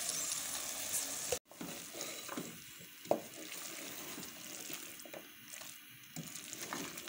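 Chickpeas and thick masala sizzling in an aluminium pot while being stirred with a spatula, with a few short scrapes against the pot. The sizzle cuts out abruptly about a second and a half in, then carries on more quietly.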